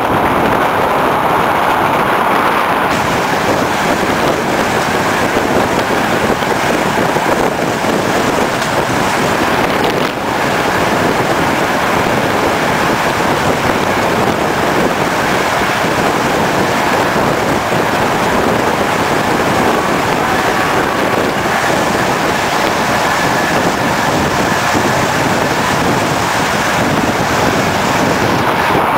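Steady rush of a passenger train running at speed, heard from aboard the carriage: wheels on track and air rushing past, with a brief dip about ten seconds in.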